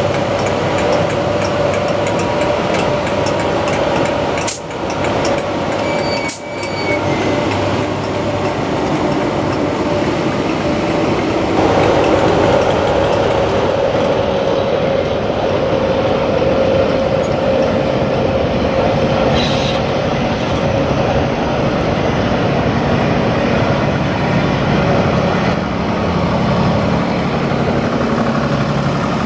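Class 86 electric locomotive 86259 hauling coaches through a station, with a steady whine over continuous wheel-on-rail noise. The sound briefly drops twice in the first seven seconds.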